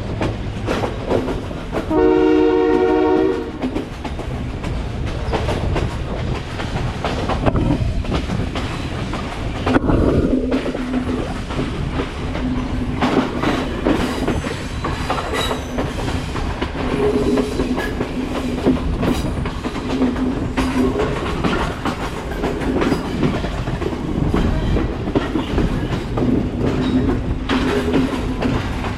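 Train running on the rails, its wheels clattering over the rail joints. About two seconds in, the locomotive's horn sounds once as a steady chord for about a second and a half.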